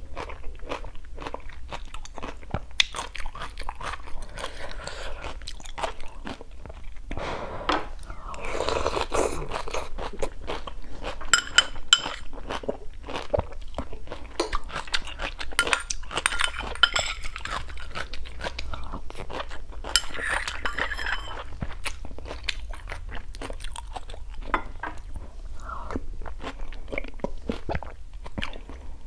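Close-miked chewing and crunching of mouthfuls of rice and sour-soup vegetables, with wet mouth sounds and a few louder stretches.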